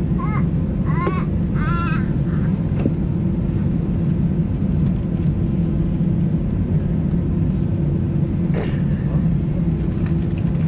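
Airbus A320's engines at taxi idle, heard inside the passenger cabin as a steady drone with a low hum and a higher held tone. In the first two seconds, a few short high-pitched cries that rise and fall cut through.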